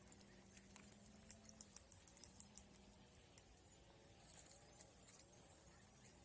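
Near silence: faint scattered clicks, several a second for a while about a second in and a few more later, over a low steady hum.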